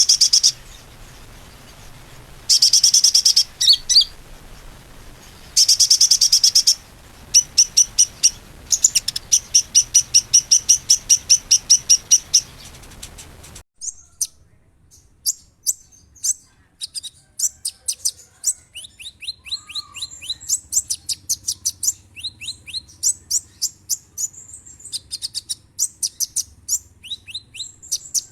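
Sunbirds singing: loud, high buzzy trills alternating with runs of rapid repeated sharp notes. Then an abrupt splice about 14 seconds in to another recording of quick, sharp falling chirps in fast series.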